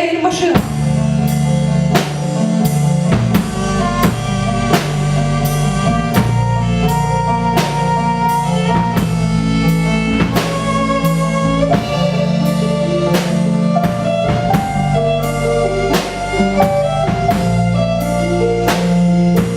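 Live rock band playing an instrumental passage: a drum kit keeping a steady beat under sustained bass notes and a held melody line.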